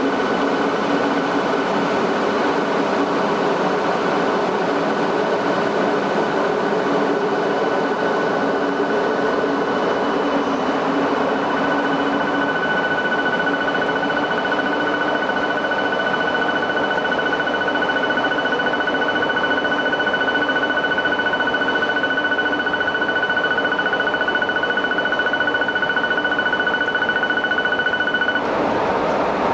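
TGV high-speed train pulling out of a station, its power car running as the train rolls away at low speed. A steady high tone sounds over the running noise and cuts off suddenly near the end.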